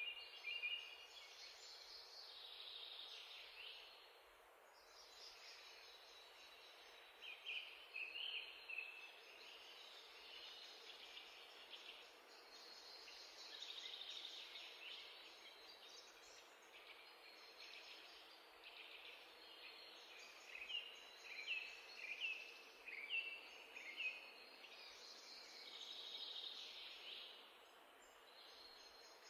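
Faint birdsong: clusters of short repeated chirps and twitters, loudest about a third of the way in and again past two-thirds, over a faint steady hiss and hum.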